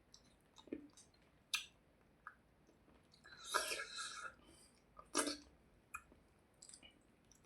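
Close-miked eating sounds of a man eating rice and hilsa fish: wet chewing and sharp mouth clicks, with a longer, louder mouth noise about three and a half seconds in.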